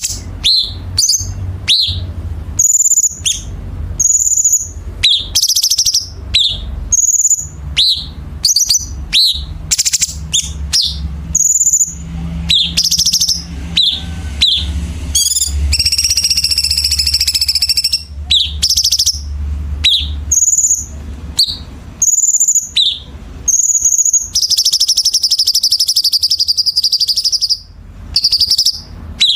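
Cucak cungkok song: a fast run of sharp, high chirps and whistles with no pause, broken by two dense buzzy trills, one about halfway through and a longer one near the end. A steady low hum runs underneath.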